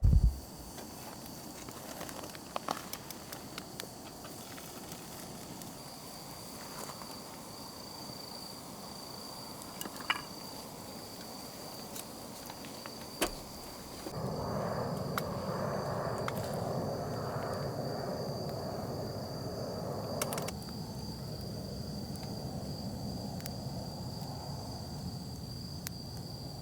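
Campfire crackling, with occasional sharp pops, and a steady high-pitched insect trill. About halfway through, a louder even hiss joins in.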